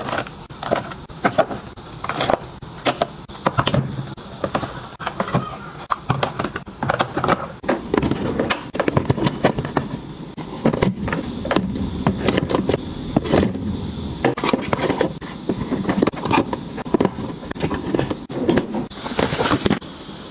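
Items being handled and set down in an organizing session: a busy, uneven run of taps, clicks and rustles.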